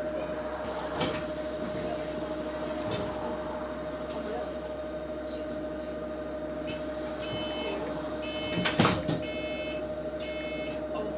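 Steady whine from a bus's hydraulic cooling fan, the weird noise under investigation. From about seven seconds in a run of short electronic beeps sounds, with a sharp knock near nine seconds.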